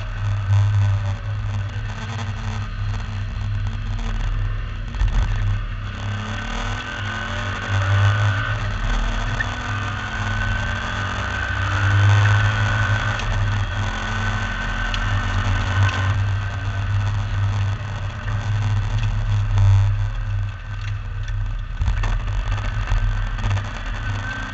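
MGB V8 race car's V8 engine heard from on board, running hard under racing load, its note rising and falling with the throttle and gear changes over a constant low drone.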